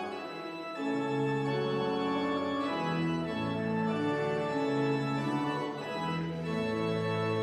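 Organ playing a hymn in sustained chords, the notes changing about every second.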